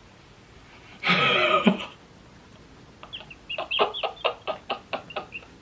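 A short noisy burst about a second in, then a rapid run of chicken clucks, about four or five a second, starting about three seconds in.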